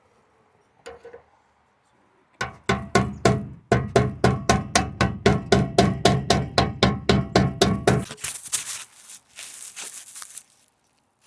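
A hammer striking metal exhaust parts in a rapid, even series of blows, about four a second, each with a metallic ring. After that comes a couple of seconds of harsh, rasping noise.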